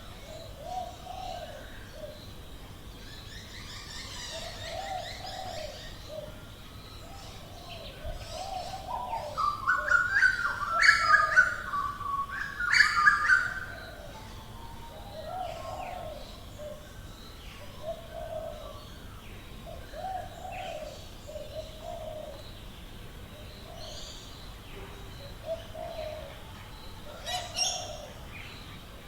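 Wild birds calling: a low cooing call repeats every second or two, and a louder burst of song with higher notes comes about ten seconds in and lasts a few seconds.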